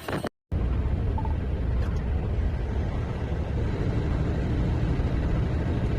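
Steady low rumbling noise, starting abruptly about half a second in after a moment of silence.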